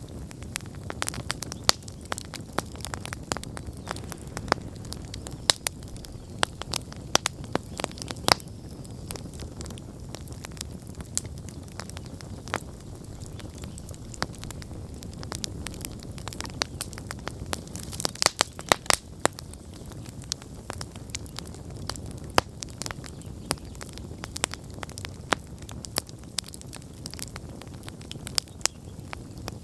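Wood campfire burning, with a steady low rumble of flames and frequent sharp crackles and pops, a quick run of louder pops about two-thirds of the way through.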